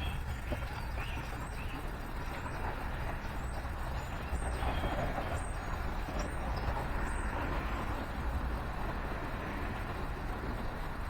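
Steady road-traffic rumble, with a few faint, high songbird chirps about once a second from roughly four to seven seconds in.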